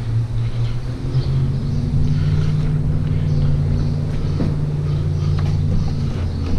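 Car engine running while driving, a steady low hum whose pitch steps up a little between one and two seconds in.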